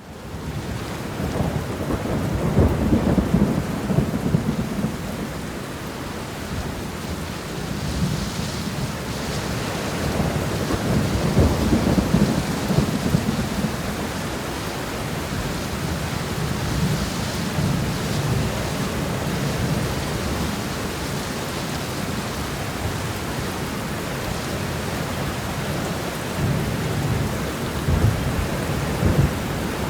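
Rain falling steadily as a continuous hiss, fading in at the start, with low rumbles of thunder swelling up three times.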